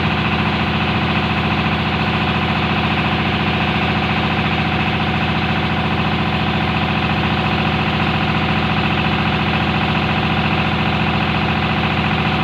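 A motor or engine running steadily at idle, an even, fast pulsing that does not change.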